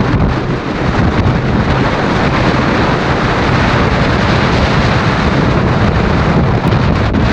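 Strong gusty wind blasting across the microphone: a loud, continuous rumbling rush, heaviest in the low end.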